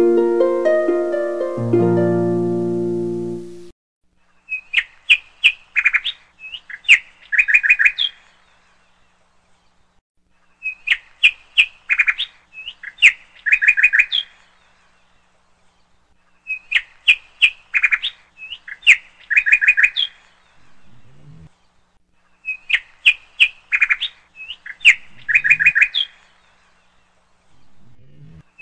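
A short musical sting at the start, then looped birdsong: the same burst of quick, high chirps repeats about every six seconds with quiet gaps between.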